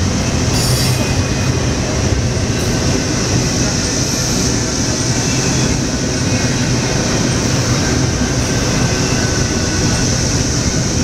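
Double-stack intermodal container train rolling past at close range: a steady rumble of wheels on rail with a continuous high-pitched wheel squeal over it.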